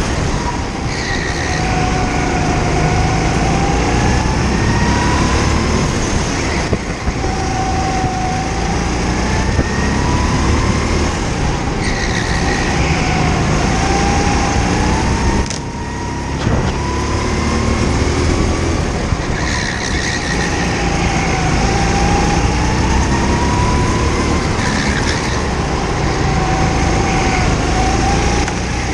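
Go-kart engine heard onboard, its note rising as it accelerates and dropping as the throttle comes off, over and over every few seconds through a lap.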